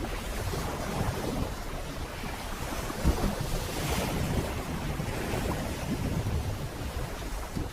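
Sea water rushing and splashing as a sailing boat moves through waves, with wind buffeting the microphone. There is a heavier thump of water about three seconds in.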